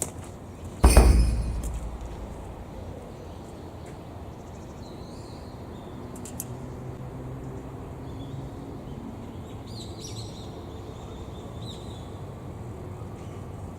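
A sudden loud thump about a second in, then steady outdoor background noise with a few faint bird chirps.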